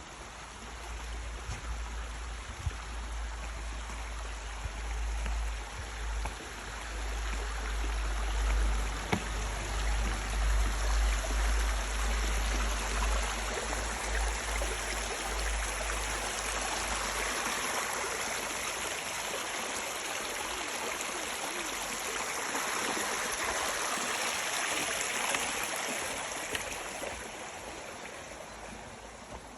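A mountain stream running, a steady rushing of water. An uneven low rumble sits under it through the first half and stops a little past the middle, and the water fades somewhat near the end.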